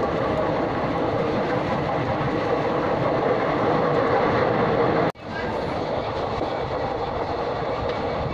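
Steady running noise of a moving train heard from inside a carriage, the wheels on the rails, with a brief dropout about five seconds in.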